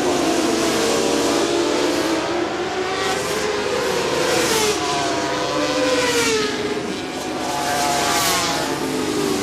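Several racing motorcycle engines running at high revs, their pitch rising and falling as bikes accelerate and pass, with louder pass-bys about halfway through and again near the end.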